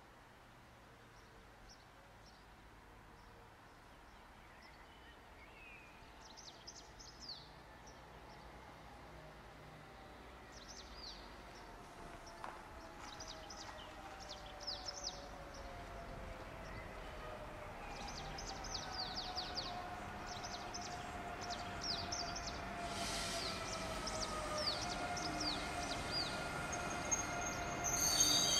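An electric passenger train approaching and slowing, its motors whining in several slowly falling tones that grow steadily louder. Small birds chirp throughout. A high squeal sets in right at the end as the train brakes into the platform.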